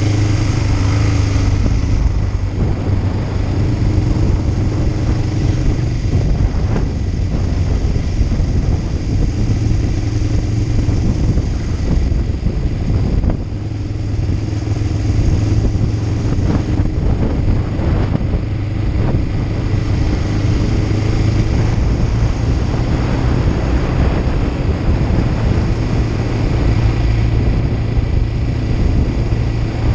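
Kawasaki Ninja 500's parallel-twin engine running steadily as the motorcycle is ridden, its level dipping briefly about thirteen seconds in.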